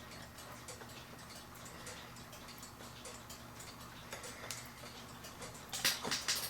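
A mechanical clock ticking steadily. Near the end comes a cluster of louder clicks and knocks as a small figure is worked onto the clock's plate.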